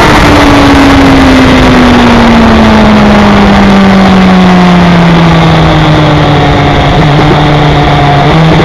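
BMW S1000RR inline-four engine slowing from high speed on a closed or part throttle, its note falling steadily in pitch as the bike slows, with a downshift near the end. Heavy wind rush on the bike-mounted microphone runs under it.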